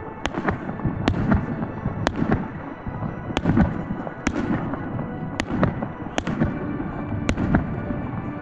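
Aerial fireworks shells bursting overhead: sharp bangs come roughly once a second, irregularly spaced, over a continuous low rumble of echoing reports.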